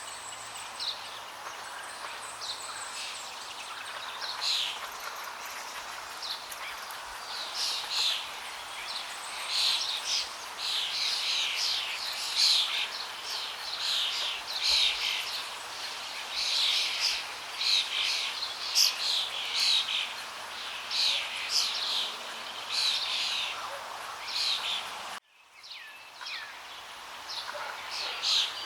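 Small birds chirping in quick, dense runs over a steady hiss of flowing water. Near the end the whole sound cuts out abruptly for a moment, then fades back in.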